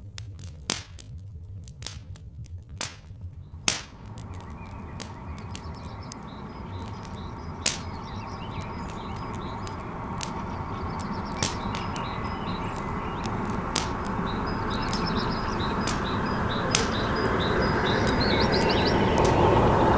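Wood fire crackling, with sharp pops scattered throughout over a low rumble, and birds chirping. From about four seconds in, a broad rushing rumble builds steadily louder.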